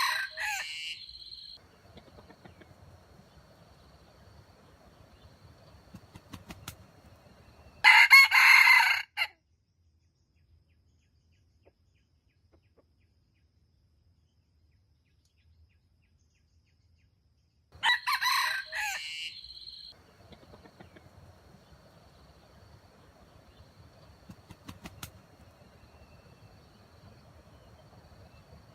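Rooster crowing three times, about ten seconds apart; the loudest crow comes about a third of the way in, and there is faint low rustling between the crows.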